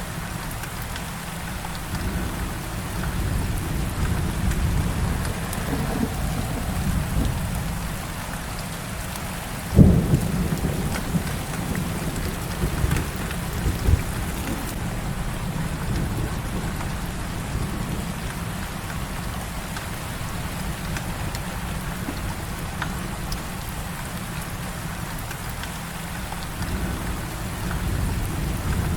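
Heavy rain falling steadily, with a sudden clap of thunder about ten seconds in and two smaller, short low thuds a few seconds after it.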